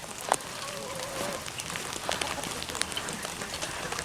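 Steady rain falling, with scattered drips and a sharp tap shortly after the start. A faint wavering animal-like call sounds about a second in.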